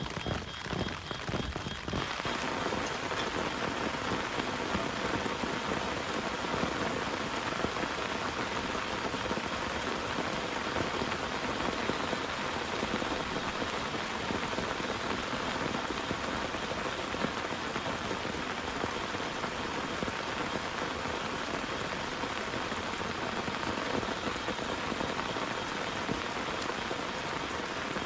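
Heavy rain falling steadily, a dense even hiss of drops; about two seconds in it turns fuller and more even.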